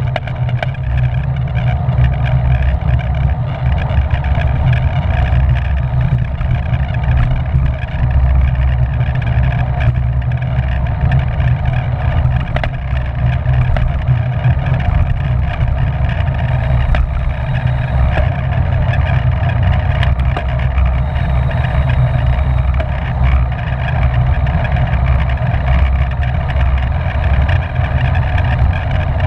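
Steady, loud rumble of wind rushing over the microphone of a camera on a bicycle racing at speed in a pack, with a constant hiss above it.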